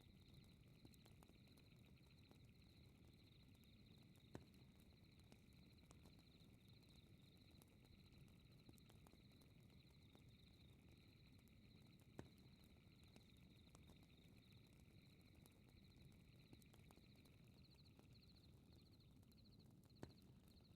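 Faint crackling fireplace: a soft low rumble of the fire with three sharp pops spread several seconds apart. Behind it runs a steady high, rapidly pulsing chirp of night insects.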